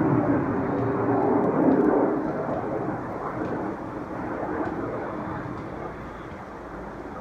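Jet engine noise from the Snowbirds' CT-114 Tutor jets, a rushing rumble that peaks about two seconds in and then fades away as the aircraft move off.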